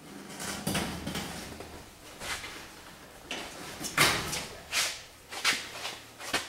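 A run of about seven clunks and scrapes at a garage door, the loudest about four seconds in, as a skunk's leg caught in the door's roller is worked free.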